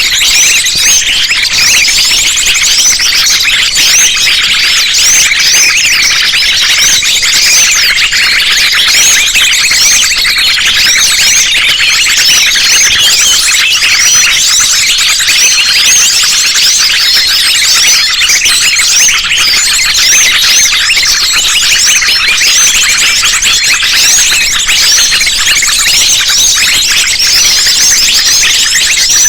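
A dense, unbroken chorus of small songbirds, sunbirds among them, giving rapid high-pitched chirps and trills, many calls overlapping at once: a mixed small-bird lure recording.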